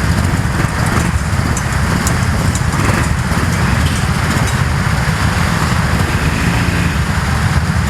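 Go-kart engines running on a kart track: a loud, steady engine drone with no break.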